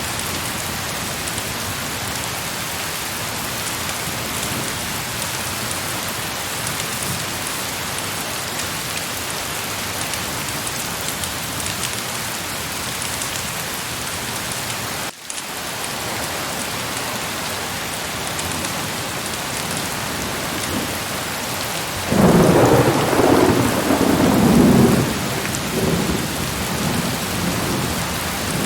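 Heavy rain falling steadily. A roll of thunder rumbles for about three seconds near the end, louder than the rain. The sound drops out for a moment about halfway through.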